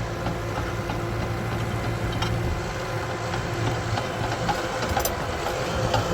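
Caterpillar bulldozer's diesel engine running steadily as it is driven, with light clicks repeating every fraction of a second.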